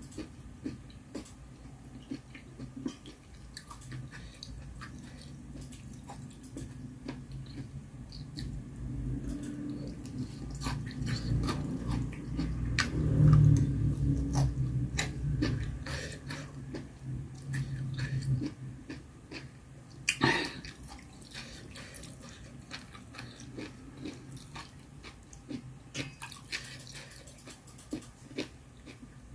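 A person eating, chewing close to the microphone, with scattered small clicks of utensils against the dish. In the middle there is a longer stretch of louder low rumbling chewing, and about twenty seconds in there is one sharp, louder clack.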